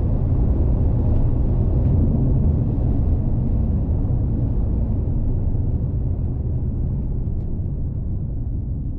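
A 2023 Chery Omoda 5 small SUV on the move: a steady low rumble of its 1.5-litre turbo four-cylinder and road noise, slowly fading.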